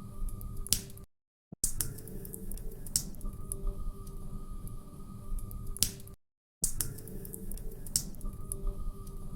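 Crackling log fire: irregular sharp pops and crackles over a low rumble. The sound cuts out to silence twice for about half a second, about a second in and again about six seconds in.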